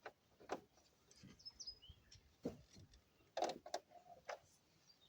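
Faint, scattered clicks and knocks of small parts and tools being handled, about five in all, with two short high chirps between one and a half and two seconds in.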